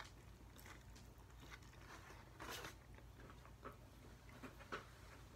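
Faint chewing and wet mouth clicks of someone eating a burger, with a slightly louder smack about two and a half seconds in, over a low steady hum.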